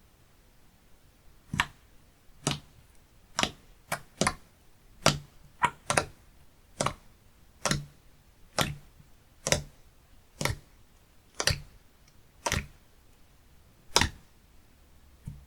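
Slime being pressed and played with by hand, giving a steady run of sharp popping clicks, about one a second.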